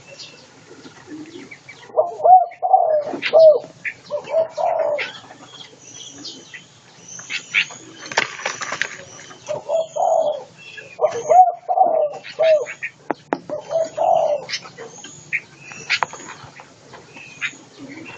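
Aviary birds: a dove cooing in short repeated phrases, several times over, mixed with sharp high chirps from small birds and brief wing flutters.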